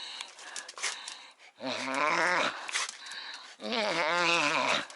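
A dog making two drawn-out, wavering growl-like calls during play, each about a second long, the first starting about one and a half seconds in and the second about three and a half seconds in, with a few light clicks before and between them.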